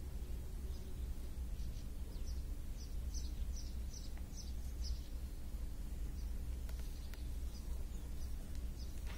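Steady low outdoor rumble, with a run of short, high bird chirps, about three a second, starting a couple of seconds in and fading out about halfway through.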